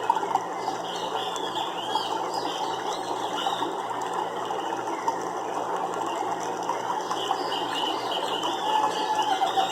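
Nature soundscape: a dense, rattling chorus of calls with short chirps above it.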